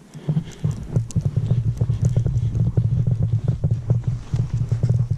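Footsteps crunching through deep fresh snow, a quick, steady walking rhythm that starts a fraction of a second in.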